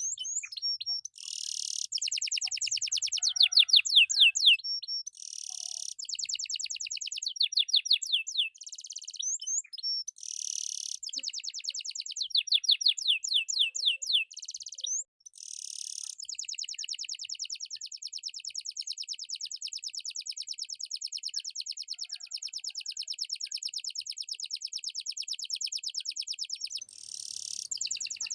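Domestic canary singing: phrases of rapid, high-pitched repeated notes and chirps broken by short pauses, then one unbroken rolling trill lasting about ten seconds, starting a little past halfway.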